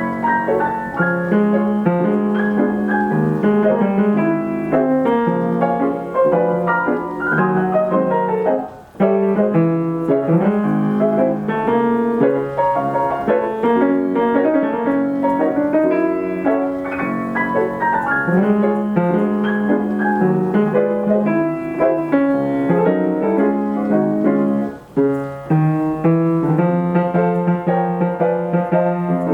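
Steinway piano played by its Ampico B reproducing action from a 1936 Ampico roll: a continuous popular-song arrangement of melody over chords, with two brief breaks in the playing, about a third of the way in and again near the end.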